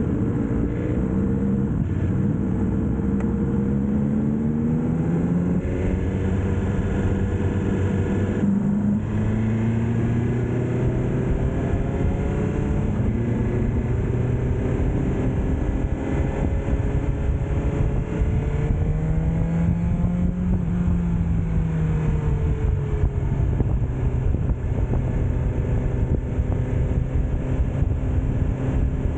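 BMW S1000R inline-four engine running under way, its pitch climbing and dropping with throttle and gear changes, with a sharp drop about eight seconds in. A steady rushing noise runs underneath.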